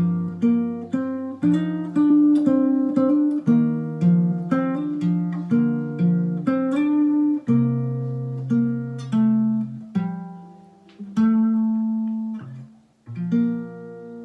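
Solo acoustic guitar playing the closing bars of a ballad, chords picked and strummed note by note. The pulse slows about halfway through into a few long, ringing chords.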